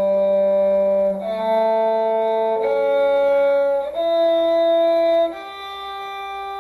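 Violin with a second bowed string an octave below, playing a slow rising series of long held notes, G, A, C sharp, E and then a higher G, each held about a second and a half. This is an upward shifting exercise, with the shift coming on the move up to E. The last note is softer and fades away.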